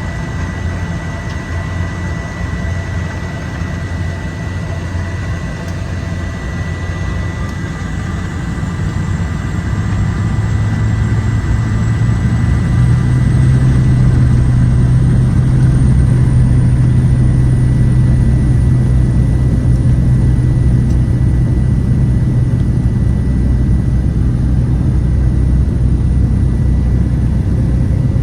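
Cessna 208 Caravan's single Pratt & Whitney PT6A turboprop engine running with a steady high whine. About eight seconds in the power comes up: a high whine rises in pitch and the engine grows louder, then holds steady at the higher power.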